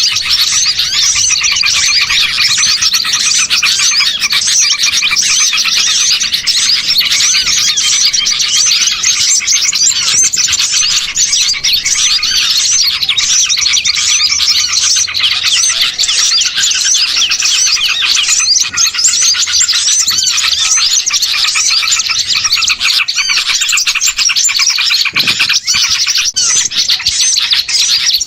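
Dense, unbroken chorus of many small songbirds chirping and twittering at once. It is a bird-luring recording of agitated small-bird calls, made to draw wild birds in.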